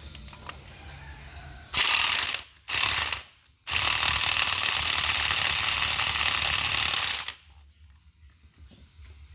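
Loud mechanical whirring in three bursts: two short ones, then one about four seconds long. Each starts and cuts off sharply.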